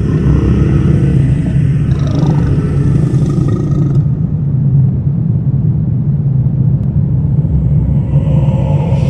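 Deep, steady rumbling drone of a designed horror ambience. Higher, hissing layers above it fade out about four seconds in and swell back near the end.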